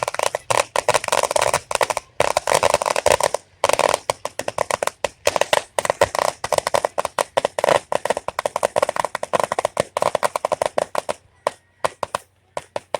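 Aerial fireworks going off in a dense, rapid barrage of bangs and crackles. About eleven seconds in the barrage thins out to a few scattered pops.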